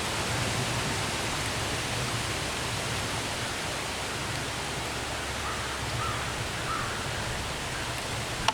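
A steady rushing noise, even and unbroken, with a short click at the very end.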